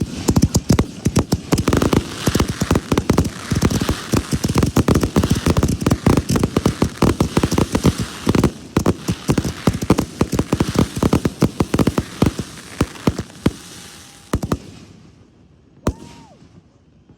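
Fireworks going off in a rapid barrage of cracks and bangs for about fourteen seconds, then thinning out to a few single reports.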